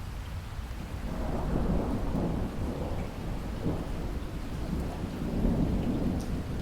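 Steady rain with a low roll of thunder that swells about a second in and keeps rumbling.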